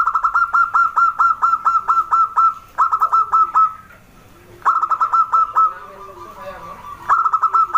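Zebra dove (perkutut) singing: quick runs of short, clipped cooing notes, about five a second. It sings in four bursts with brief pauses between them, and softer, lower coos fill the gaps.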